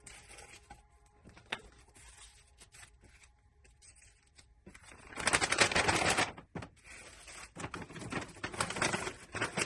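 Wrapping material crinkling and rustling as a painting is packaged, in two dense crackly bursts, the first about halfway in and the second near the end.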